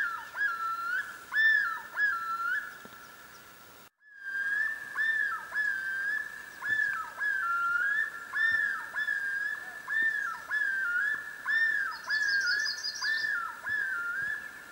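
Clear whistled bird calls: a held note broken about twice a second by quick swooping dips. A faster, higher trill comes in near the end.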